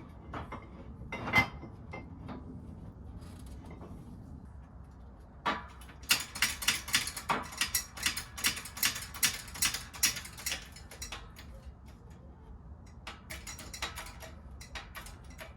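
Metal parts of a differential being worked by hand, giving a fast run of sharp metallic clicks, about five a second, from about six to ten seconds in and again briefly near the end. A single louder click comes a second or so in.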